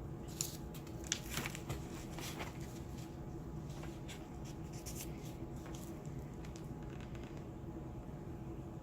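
Handling noise of small objects: scattered light clicks, taps and rustles, busiest in the first three seconds, over a steady low hum.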